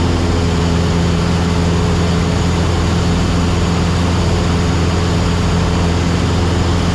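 Cessna 172SP's four-cylinder Lycoming IO-360 engine and propeller droning steadily at cruise power, heard from inside the cabin.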